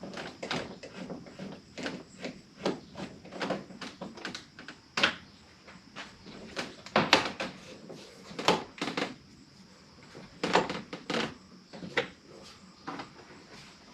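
Irregular clicks, knocks and clunks of hands handling parts on a pickup truck's door, a few every second, with several louder knocks.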